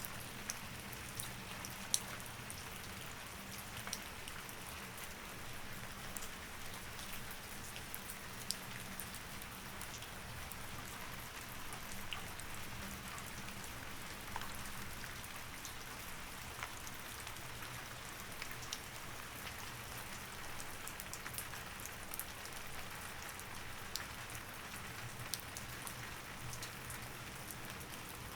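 Steady rain, with individual drops tapping sharply here and there over an even hiss, and a faint steady low hum beneath.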